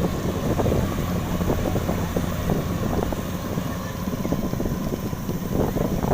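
Kubota DC93 combine harvester running steadily, its engine giving an even low hum under a noisy mechanical rush.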